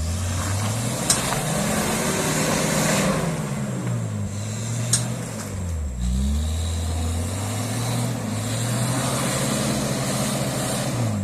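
Suzuki Vitara engine revving up and dropping back twice while driving off-road, with rough tyre and body noise and two sharp knocks, about a second and about five seconds in.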